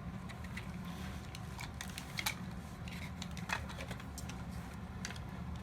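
Light, scattered clicks and taps of plastic parts being handled as a Mr. Robot toy is taken apart, over a steady low hum.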